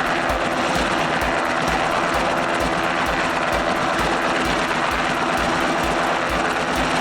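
Military helicopter running close by: a steady rhythmic rotor beat of about three strokes a second over a continuous engine and turbine drone.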